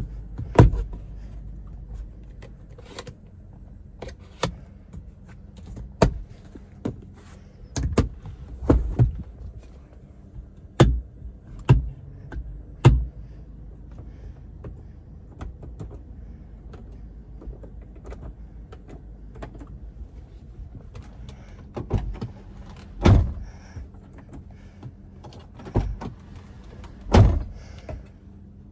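Sharp clicks and thunks inside a car, a dozen or so at irregular intervals with a quiet stretch in the middle, over a steady low hum. They are typical of the cabin's controls, latches and panels being worked.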